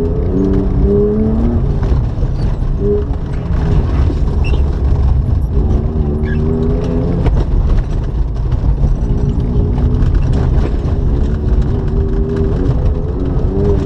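BMW E36 engine heard from inside the cabin while being driven hard on loose gravel, its note rising and falling repeatedly as the throttle is opened and lifted, over a constant heavy rumble of tyres on the gravel. Scattered sharp clicks of gravel striking the car.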